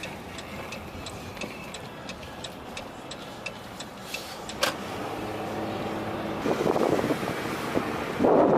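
A vehicle running steadily, with a light regular ticking about two to three times a second in the first half and louder rushing swells near the end.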